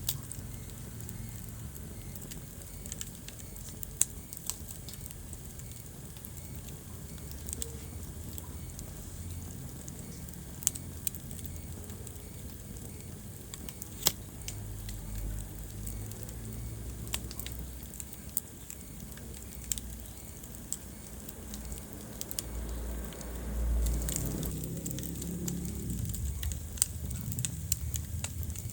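Wood fire crackling in a fireplace: irregular sharp pops and snaps over a low steady rumble of the flames, which swells louder for a few seconds about three-quarters of the way through.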